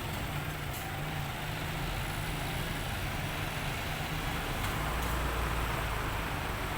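A motor vehicle's engine running steadily with a low hum, getting a little louder over the last couple of seconds.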